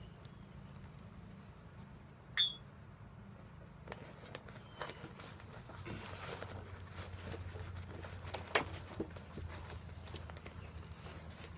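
Handling noises from fitting a new paper dust bag into a Hoover Conquest upright vacuum: scattered sharp clicks, the loudest about two seconds in with a brief squeak, another near the end, and a short rustle of paper or cloth in the middle, over a steady low hum.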